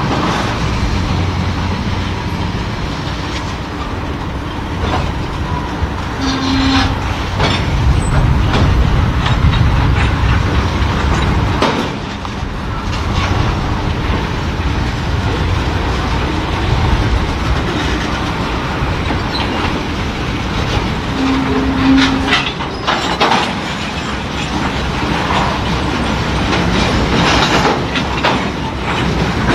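Freight train cars rolling past at a crossing: a steady rumble of steel wheels on rail, with irregular clicks and clanks as the wheels pass over rail joints.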